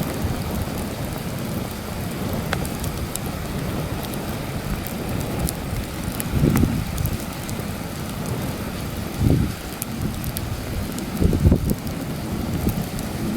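Campfire crackling with scattered sharp pops while heavy wind buffets the microphone in a low rumble, with three stronger gusts in the second half.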